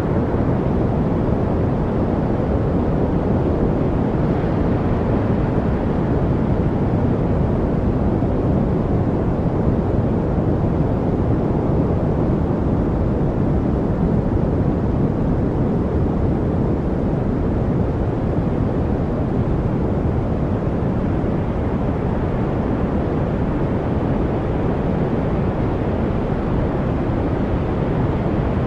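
Steady, unchanging synthetic noise with its weight in the low end, so it sounds more like a rumble than a hiss, played as 'white noise' for studying.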